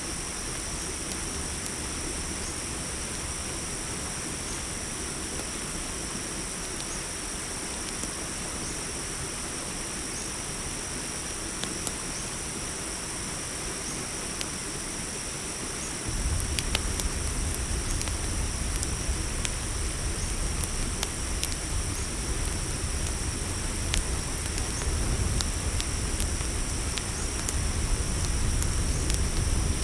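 Steady chorus of night crickets chirping in two high, unbroken bands. About halfway through, a louder layer cuts in abruptly: a low rumble with scattered sharp pops, the crackle of a campfire.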